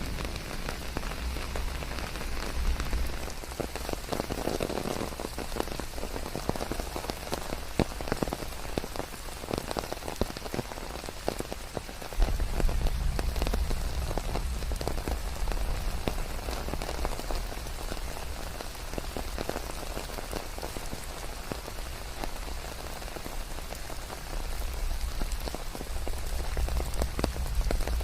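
Steady rain falling on leaves, with many individual drops ticking through the hiss. A deep low rumble comes up sharply about twelve seconds in and again near the end.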